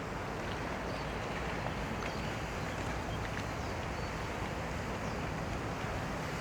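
Steady harbour noise of boat engines running out on the water, with a faint low hum and even noise throughout.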